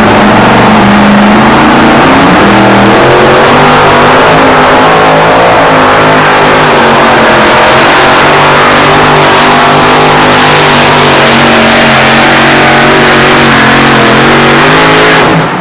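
Two-wheel-drive pulling truck's engine at full throttle down the track, very loud. Its pitch climbs over the first few seconds and then holds steady, and the sound drops away abruptly just before the end.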